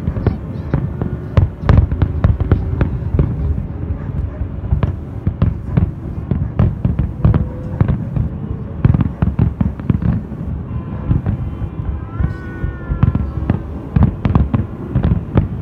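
Fireworks display: a rapid, continuous barrage of shells bursting, with many sharp bangs and booms close together.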